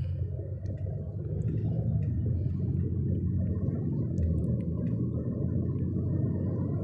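Steady low rumble inside a moving car's cabin: road and engine noise, with strong storm wind pressing against the car.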